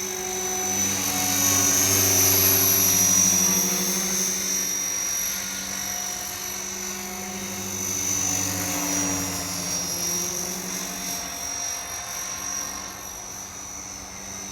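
Align T-Rex 470LP electric RC helicopter in flight: steady rotor drone with a high motor whine. It grows louder about two seconds in, eases off, and rises again about eight seconds in as it flies.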